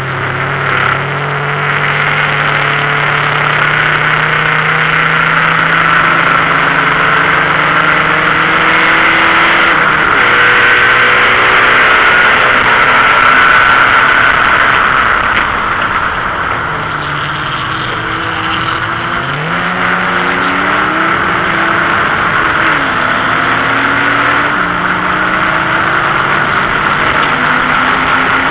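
BMW 528e's 2.7-litre straight-six engine running hard, heard inside the stripped race-car cabin. Its pitch climbs and then drops sharply several times as it is driven through the gears, and the car briefly runs quieter partway through before pulling hard again, all over loud wind and road noise.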